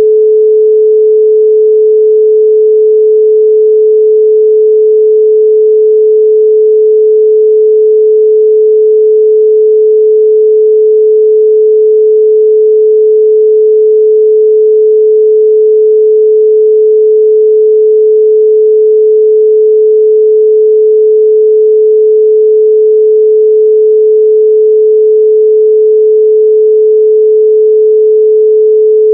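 A pure 432 Hz sine tone, held steady and unbroken at one pitch with no overtones.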